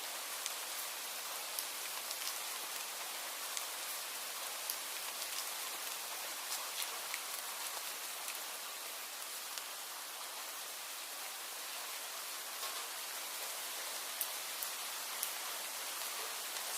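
Steady rain falling, an even hiss with individual drops ticking sharply every so often.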